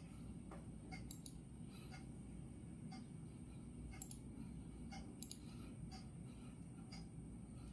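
Clock ticking about once a second, faint, over a steady low background noise.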